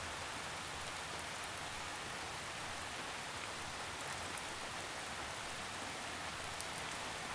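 Steady rainfall in a forest, drops pattering on leaves and ground, an even hiss with faint individual drops ticking through it.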